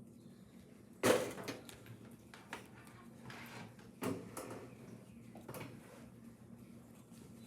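Two sharp knocks about three seconds apart, the first the louder, with a lighter click and soft rustling between them.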